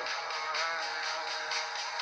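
A Russian pop song with a sung melody playing on the radio. It sounds thin, with almost no bass.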